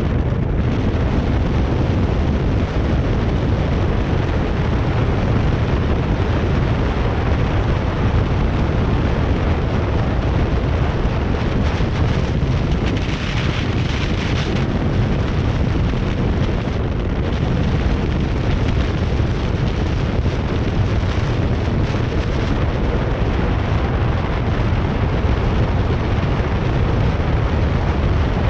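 Heavy, steady wind noise buffeting the camera's microphone, mostly a low rumble.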